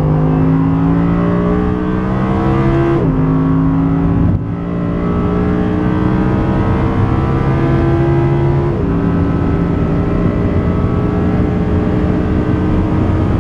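Audi R8 V10 Plus's 5.2-litre V10 pulling hard under full throttle, its pitch climbing steadily and dropping sharply about three seconds in and again more slightly later, as it shifts up through the gears.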